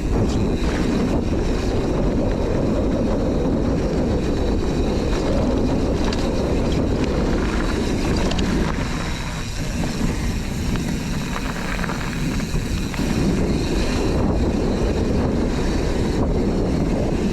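Wind buffeting the microphone of a mountain bike riding down a dirt trail, with tyre noise and scattered clicks and rattles from the bike.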